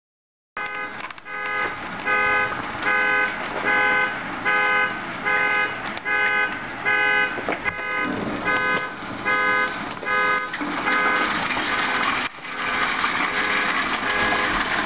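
A car alarm sounding the horn in steady repeated honks, about one and a half a second, set off by the hailstorm. Under it, hail falling makes a noisy clatter that grows louder about two-thirds of the way through.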